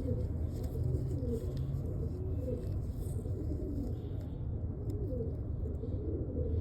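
Domestic pigeons cooing over and over, with overlapping wavering calls, over a steady low hum.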